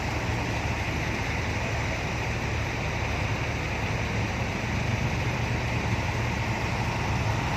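Steady outdoor ambience of a truck show ground: a constant low hum under an even wash of noise, with no single event standing out.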